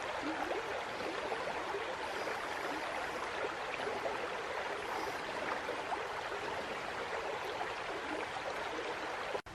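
Creek water running over small rocky cascades: a steady rushing, with no change through the clip.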